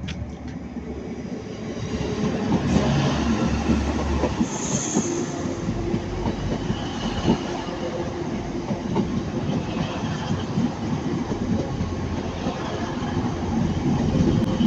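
Diesel multiple-unit passenger train passing close by the platform, growing louder about two seconds in and staying loud.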